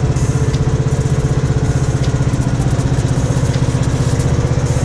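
Troy-Bilt riding lawn mower engine running steadily under load in first gear, with an even, fast pulse, as it tows a boat trailer.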